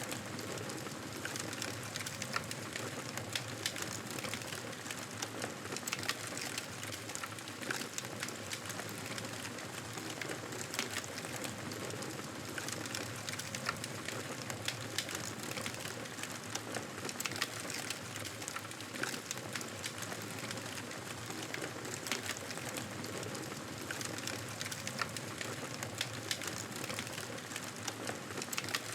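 Wood fire in a fireplace crackling: a steady hiss dotted with many small irregular pops and snaps.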